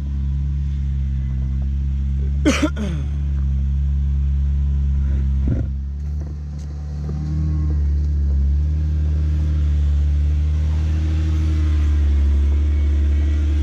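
Jeep engine running at low revs on a 4x4 trail with a steady low rumble, the note picking up slightly about seven seconds in. Two short sharp knocks cut across it, about two and a half seconds in and again near six seconds.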